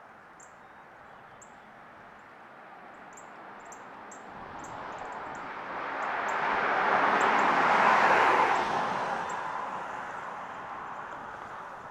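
A vehicle passing close by: a rushing noise with no clear tone swells from about four seconds in, is loudest about two-thirds of the way through, then fades. Small birds chirp above it.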